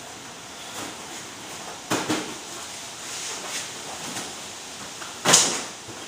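Handling noise from machine covers being rolled up, with two sudden knocks about two and five seconds in, the second the loudest.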